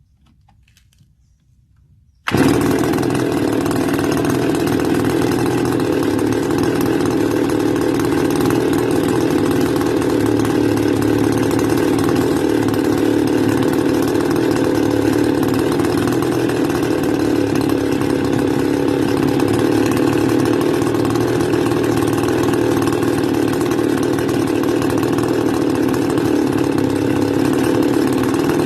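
Stihl FS280 brush cutter's two-stroke engine running at a steady idle, its idle speed just raised half a turn to try to keep it from stalling. It cuts in suddenly about two seconds in and then holds an even, unchanging level.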